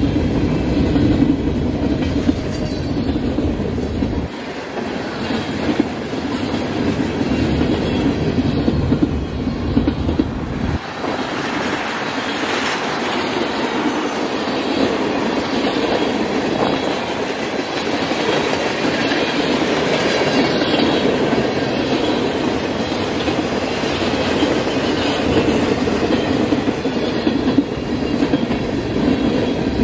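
Freight train cars rolling past close by, gondolas then tank cars, with the steady rumble and clickety-clack of steel wheels over the rail joints. The deep rumble drops away about eleven seconds in.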